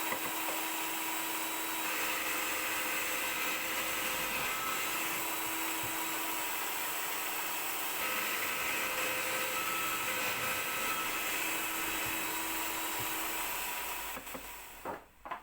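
A small electric power tool running steadily with a whirring hiss. It winds down near the end, followed by a couple of sharp knocks.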